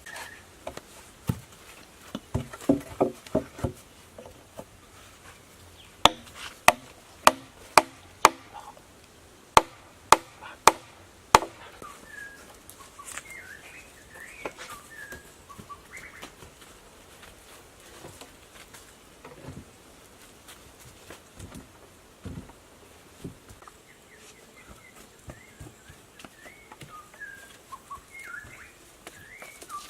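Chopping blows on wood: a quick flurry of knocks, then about ten sharp, evenly spaced strikes, roughly two a second. Birds chirp in the later part.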